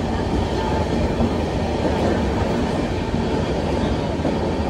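Passenger train running, heard from on board the coach: a steady, mostly low-pitched noise of wheels on track.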